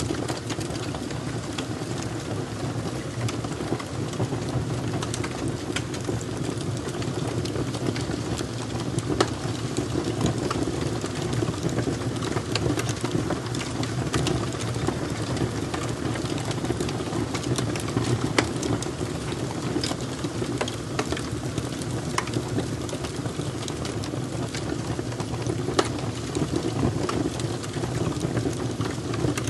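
Fire crackling: a steady low rush with sharp pops and snaps scattered irregularly through it.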